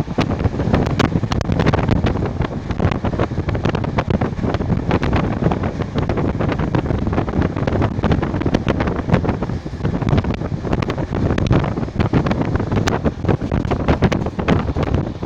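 BDŽ fast passenger train running, heavy wind buffeting the microphone, with many sharp clicks throughout.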